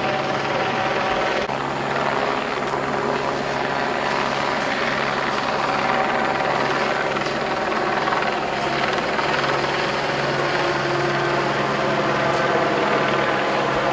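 Helicopter running steadily with a constant rotor and turbine drone and a steady pitched hum.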